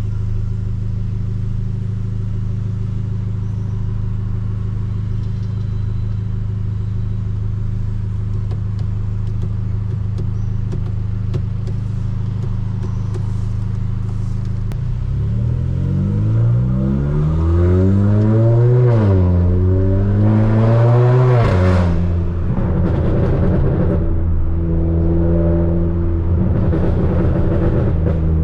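Stage 2 tuned Volkswagen Polo GTS's turbocharged 1.4 TSI four-cylinder on a sport exhaust, running steadily at low revs. About halfway through it accelerates hard: the revs climb, dip at a gear change, climb again, then drop suddenly as the throttle is lifted, settling back to a steady lower run.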